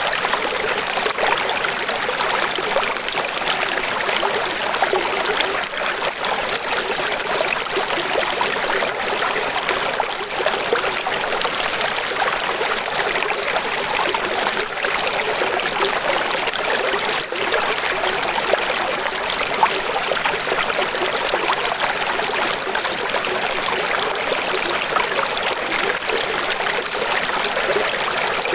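Running water rushing and trickling steadily without a break, thin-sounding with almost no low rumble.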